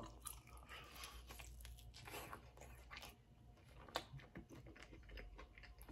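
Faint chewing of fried food, with soft crunches and small mouth clicks; one slightly louder click about four seconds in.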